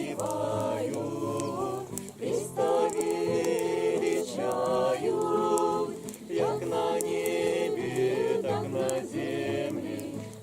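A group of voices singing together without instruments, in phrases of held notes broken by short pauses.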